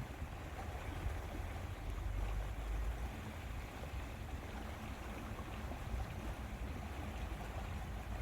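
Lakeside wind and water ambience: a steady low wind rumble on the microphone under an even wash of water noise.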